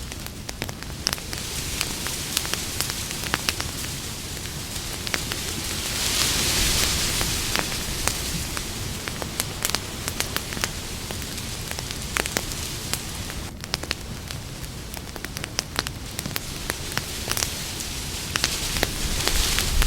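Campfire crackling: many sharp snaps and pops over a steady hiss, with the hiss swelling for a second or two about six seconds in and again near the end.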